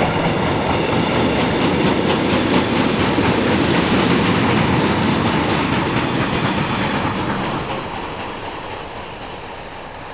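Train passing by on a main line, loud and steady, then fading away over the last few seconds as it recedes.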